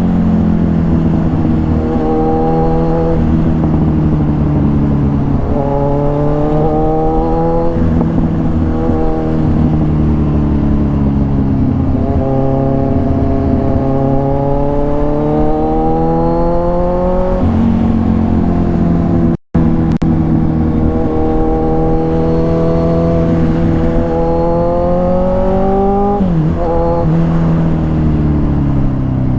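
Kawasaki Ninja 1000's inline-four engine through an SC Project exhaust, ridden through the gears. The exhaust note climbs steadily in pitch and drops at each upshift, several times over. The sound breaks off for a moment about two-thirds of the way through.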